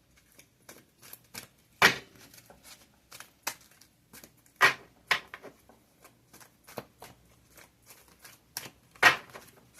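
Tarot cards being shuffled and handled: a run of soft clicks and shuffling rustles with a few sharper card snaps, the loudest about two seconds in and near the end.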